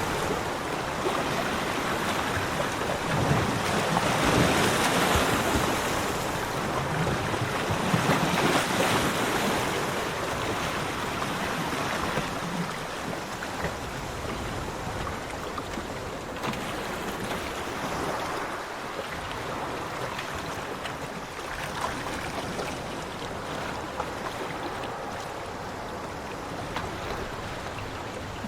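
Sea waves washing onto a beach: a continuous surf noise that swells louder twice in the first ten seconds, then settles into a steadier, slightly quieter wash.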